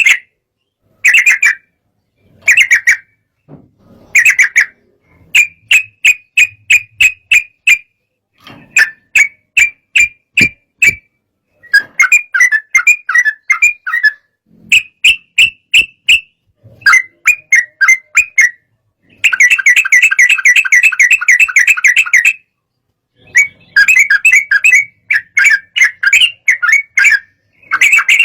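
Sooty-headed bulbul (trucukan) giving its agitated, excited song: phrases of rapid sharp chattering notes, some as spaced runs of about five notes a second and some as dense unbroken chatter, separated by short silences. This is the fired-up call that keepers use to provoke other birds into singing.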